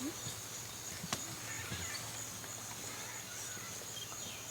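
Steady high-pitched drone of rainforest insects, with faint scattered chirps and a single click about a second in.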